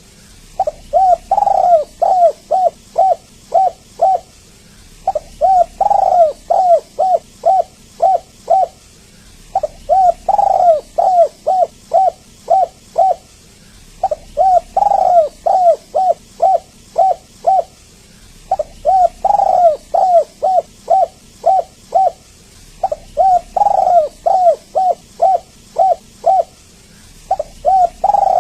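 Spotted dove (tekukur) cooing: phrases of short, quick, evenly spaced coos around one louder drawn-out coo, each phrase lasting about three to four seconds and repeating roughly every four and a half seconds after a short pause.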